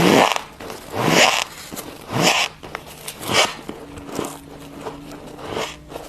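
Squeaky freezer frost being chewed, four loud rasping crunches about a second apart, then a few softer ones.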